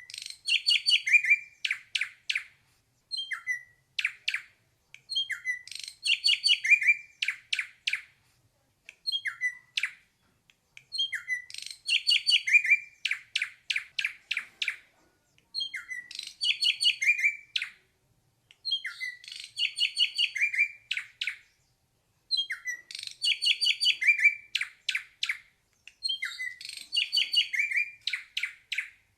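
Ashy drongo singing the same phrase over and over, about every six to seven seconds. Each phrase has a few short rising whistles, then a fast, chattering run of notes that ends in a string of sharp clicks.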